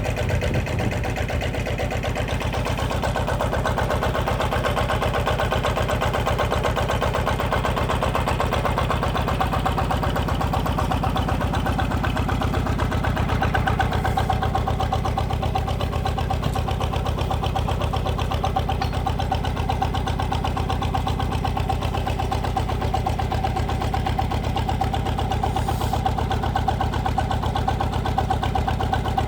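Walking tractor's single-cylinder diesel engine running steadily at a constant speed with an even, rapid firing beat. It is driving the hydraulic pump of a home-built log splitter.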